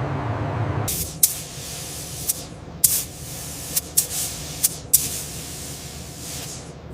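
A series of about eight short hissing bursts of compressed-air spray, each starting sharply and tailing off, after a low rumble cuts off about a second in.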